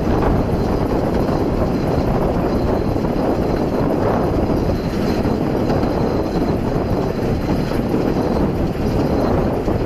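Narrow-gauge steam railway train running along the line, heard from a carriage window: a steady rumble of the coaches' wheels on the rails.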